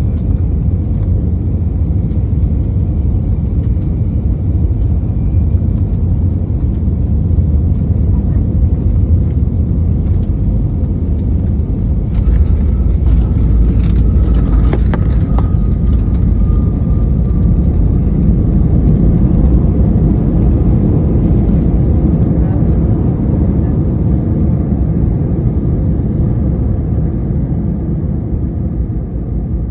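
Cabin noise of an Airbus A320-200 landing: a loud, steady low rumble of engines and airflow. About halfway through it grows louder, with rattling and a faint falling whine, then eases off near the end as the jet slows on the runway.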